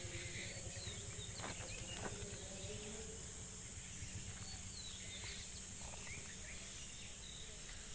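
Rural outdoor ambience: a steady high-pitched insect drone, with a constant low rumble and a few short, faint bird chirps.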